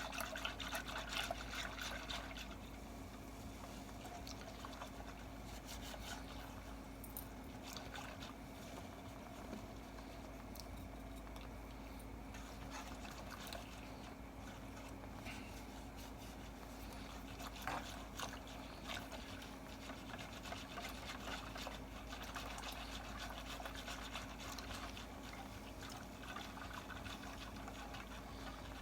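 Warm milk poured a little at a time into a pan of chocolate pudding mix and whisked in: faint liquid sloshing and pouring with light, irregular whisk clicks, over a steady low hum.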